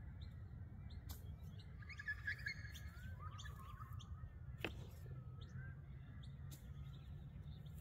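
Birds chirping and calling over a steady low outdoor rumble, with a couple of brief clicks, the clearest about two-thirds of the way through.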